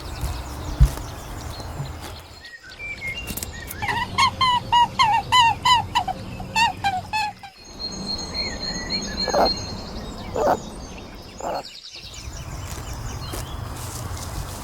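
Birds calling in short edited clips: a quick run of about a dozen repeated chirping notes, then higher held whistles with a few louder calls, over a low steady background hum.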